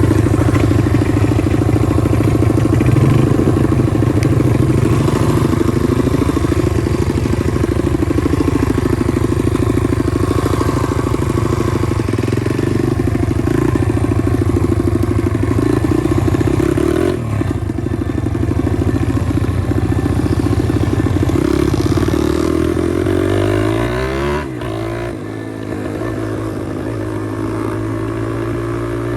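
Pit bike engine running, its pitch rising and falling as the throttle is worked. The sound drops off with a falling glide late on, then picks up again.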